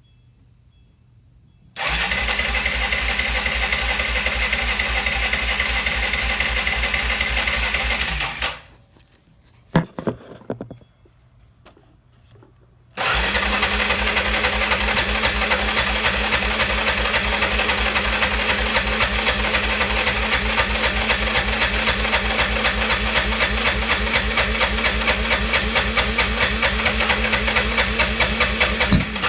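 Arctic Cat ATV engine starting and running at a steady idle with a magneto replaced to cure a no-start fault. It stops about eight seconds in, a few clicks follow, and it starts again and runs steadily to the end.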